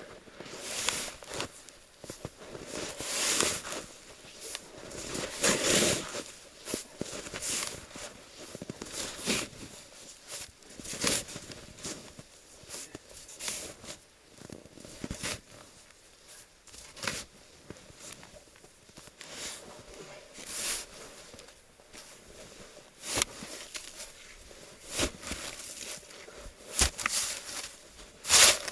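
Snow being shovelled in deep snow: irregular scrapes and crunches every second or two.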